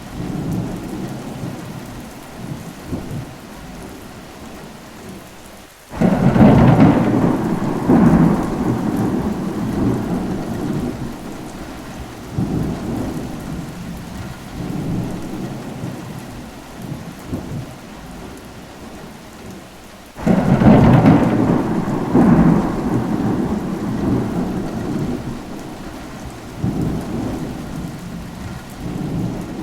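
Steady rain with rolling thunder. Two loud claps come about six seconds in and again about twenty seconds in, each rumbling away over several seconds.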